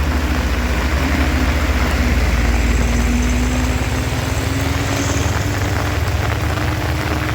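A heavy vehicle's engine running steadily at low speed, a deep hum with a slowly sinking tone that fades about two-thirds of the way in.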